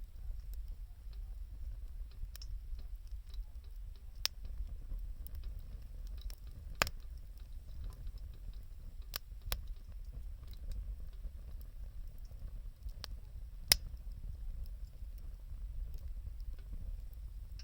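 Wood fire crackling, with sharp pops at irregular moments, two of them clearly louder than the rest, over a low steady rumble.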